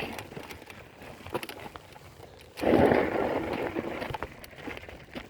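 Riding noise from an e-bike on a trail: scattered clicks and rattles over a low rush, with a louder noisy rush for about a second, two and a half seconds in.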